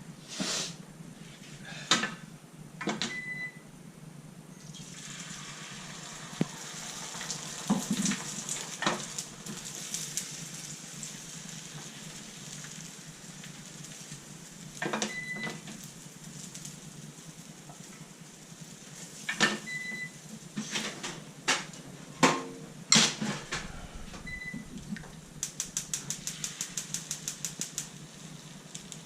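Kitchen work: dishes, pans and utensils clinking and knocking, with a short high electronic beep from an appliance four times. A stretch of hissing runs through the first half, and a quick run of even clicks comes near the end.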